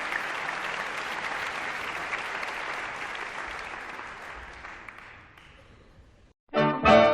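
Audience applauding, fading away over about six seconds. After a brief silence, music starts with loud sustained notes near the end.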